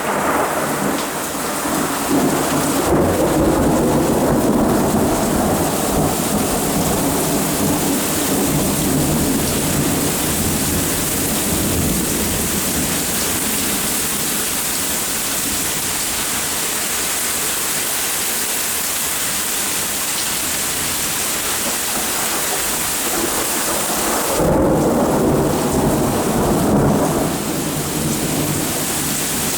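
Steady heavy rain, with a roll of thunder rumbling about two seconds in and another near the end.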